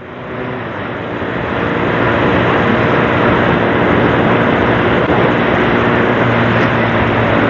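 Sportbike riding along, its engine running under a heavy rush of wind and road noise on the rider's microphone; the noise builds over the first couple of seconds as the bike picks up speed, then holds steady.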